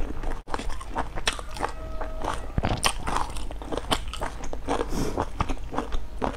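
Close-miked chewing and biting on large stuffed buns: a dense, irregular run of crackly mouth clicks and bites.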